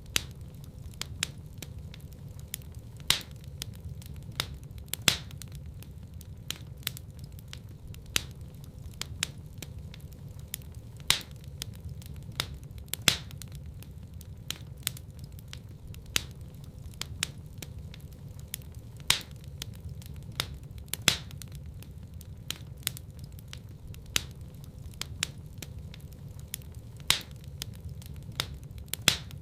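Fire crackling in a fireplace: sharp pops and snaps come at irregular intervals, a few louder ones every second or two, over a steady low rumble of the flames.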